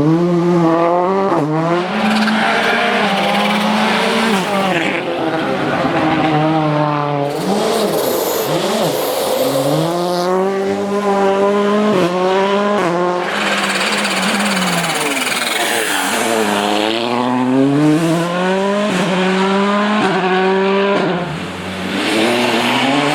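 Volkswagen Polo R WRC rally car's turbocharged four-cylinder engine accelerating hard through the gears with quick, abrupt upshifts, then dropping revs on the downshifts into corners, several times over. Stretches of hissing tyre noise come in between.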